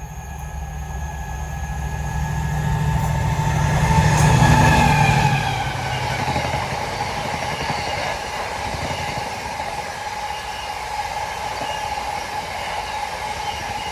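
Colas Rail diesel-hauled freight train passing. The locomotive's engine builds to its loudest about four to five seconds in, then the wagons roll past with a steady rumble and a thin steady ringing tone.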